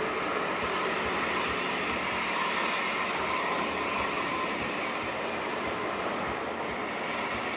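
Steady running noise of an intercity bus on the move, its engine and tyre noise blending into an even rumble and hiss.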